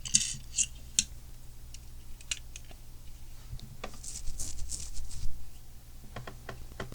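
Lego plastic pieces clicking and tapping as they are handled and pressed into place, with scattered sharp clicks and a brief rustle of pieces about four seconds in.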